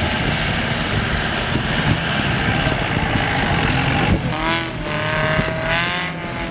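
Off-road vehicle engine running hard under load, steady throughout; from about four seconds in a person's voice calls out loudly over it.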